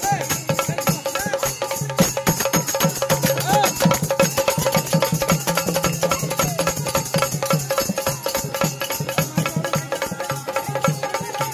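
Marathi bhajan band music, mostly instrumental: a fast dholki drum rhythm with a jingling, rattling percussion layer over steady held keyboard notes.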